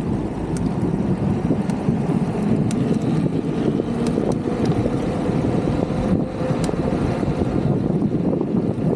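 Wind rushing over the microphone with tyre and road rumble from a moving e-bike: a steady noise, with a few faint ticks scattered through it.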